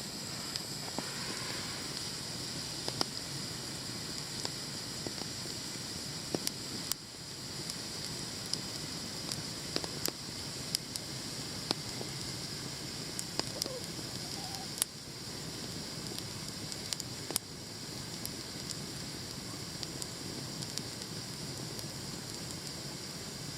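Wood campfire burning, with scattered sharp crackles and pops over a steady hiss.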